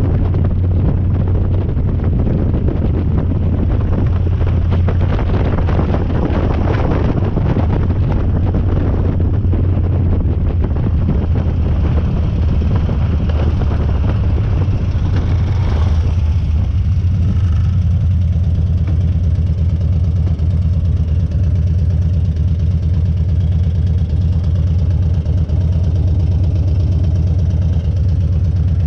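Harley-Davidson Dyna's V-twin engine running under way with wind on the microphone, then easing off a little over halfway through and settling into a steady idle.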